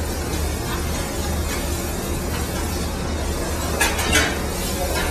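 Onions and prosciutto sizzling in hot olive oil in a pan while they brown. Near the end there are two sharp clinks, a utensil striking the pan.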